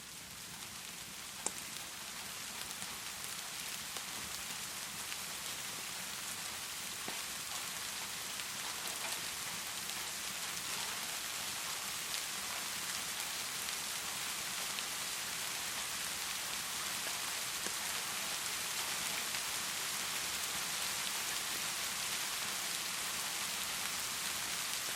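Heavy rain pouring in a steady hiss, swelling over the first few seconds and then holding even, with a sharp click about a second and a half in.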